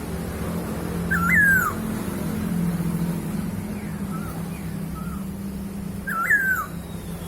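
Chinese hwamei (poksay hongkong) calling: two loud whistled notes a few seconds apart, each swooping up and then falling, with a few fainter short notes between them. A steady low hum runs underneath.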